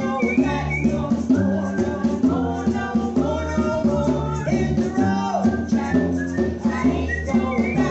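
Live gospel group performing a song: voices singing over a band with a steady bass line and a shaker-like rattle keeping the beat.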